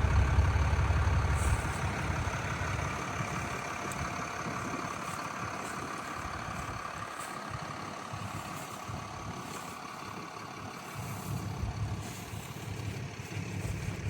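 Truck engine running, a loud low rumble for the first second or two, then settling to a steadier, quieter run before the low rumble swells again near the end.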